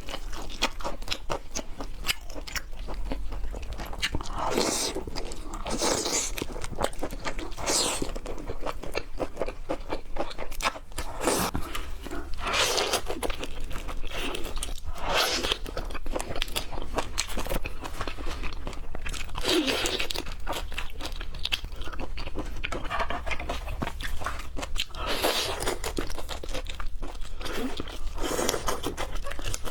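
Close-miked eating of raw seafood: steady crunchy chewing and biting, with louder mouth sounds every few seconds.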